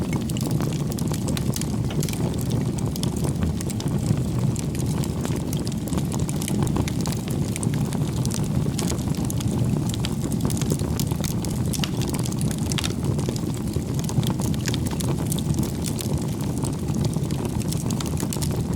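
Bonfire of firewood burning: a steady low rumble of flames with frequent small crackles and pops from the wood throughout.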